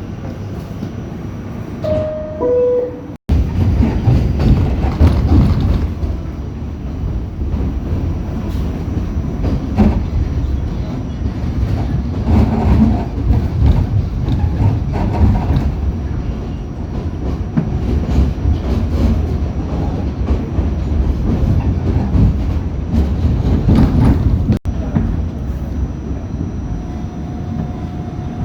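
New York City subway train running, a steady low rumble with wheels clacking over the rails, heard from inside the car. About two seconds in, a falling two-note chime sounds, like the subway's door-closing chime, and the sound cuts off abruptly twice.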